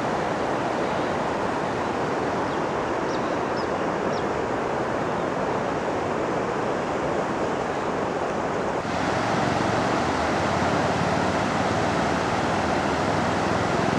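Floodwater of a swollen river rushing past in a steady roar. About nine seconds in the sound changes abruptly and becomes brighter and a little louder. A few faint high chirps come about three seconds in.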